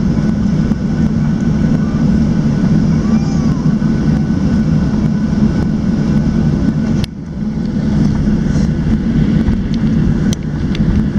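Steady rumble of a Boeing 737-700's CFM56-7B engines and airflow heard from inside the passenger cabin, with a brief dip in level about seven seconds in.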